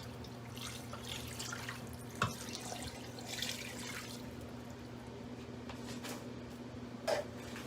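Canned chicken broth poured into an Instant Pot's inner pot: faint liquid pouring and splashing, with a light knock twice, once about two seconds in and again near the end.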